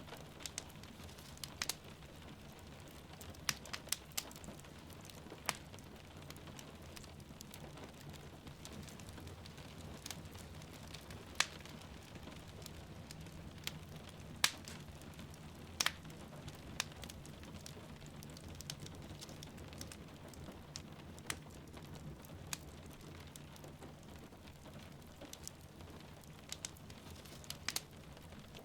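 Wood fire crackling, with irregular sharp pops over a steady low rumble and the soft hiss of rain.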